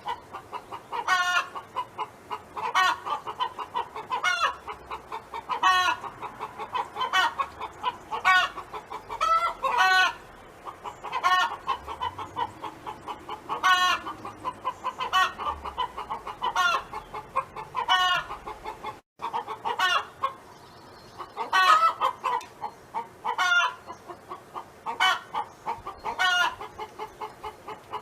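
Chicken hen clucking continuously, with a louder pitched call breaking in about every second or two.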